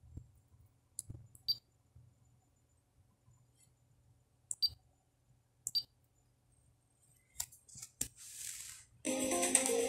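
About six sharp, isolated clicks as a finger taps through the menus of a Pioneer AVH-P6380BT touchscreen head unit, over a faint low hum. A short hiss comes near the end, and guitar music cuts back in just before the end.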